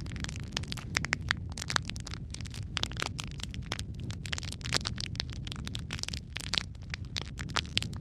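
Logs burning in a fireplace, with frequent irregular crackles and pops over a low steady rumble of the flames.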